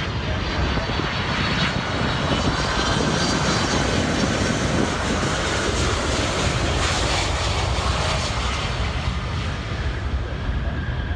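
Heavy wide-body jet airliner flying past on approach to land, a loud jet rumble and hiss with a faint high engine whine, swelling in the first couple of seconds and easing a little near the end.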